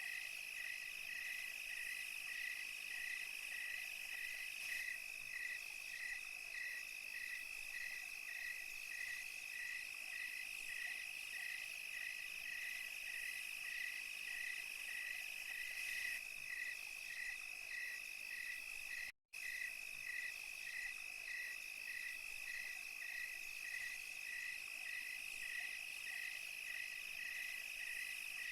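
Night chorus of crickets and other insects: a steady high trill with a regular chirp about twice a second over it. The whole sound cuts out for a split second about two-thirds of the way through.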